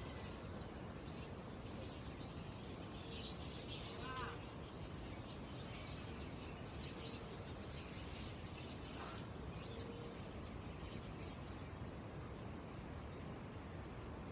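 Dense, high-pitched chirring of many crickets, with a few short bird chirps about four and nine seconds in.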